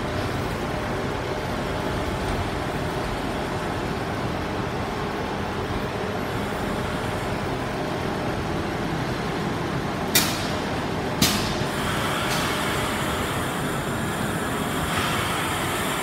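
Push-pull passenger train, driving van trailer 82132 leading, rolling slowly into a station platform with a steady rumble. Two sharp clacks come about ten and eleven seconds in, and a higher hiss or squeal of brakes joins from about twelve seconds as it slows.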